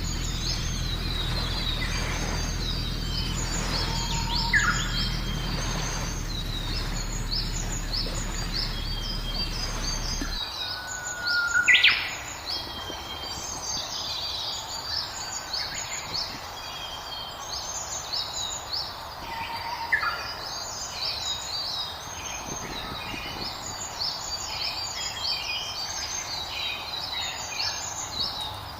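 Many songbirds chirping and singing together in a dense run of short, high notes, with a louder, sweeping call standing out about three times. A low steady hum underneath stops about a third of the way through.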